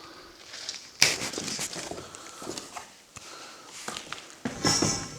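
Footsteps, irregular, with a sharp loud step about a second in and another loud stretch near the end.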